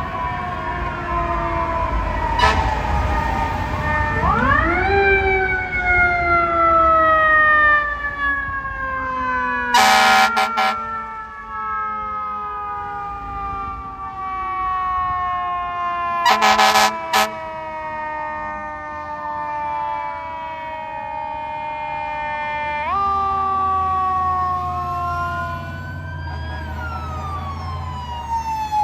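Fire apparatus sirens wailing, each rising quickly and then winding slowly down several times. Two short air horn blasts come about ten and sixteen seconds in, and a heavy truck engine rumbles near the end.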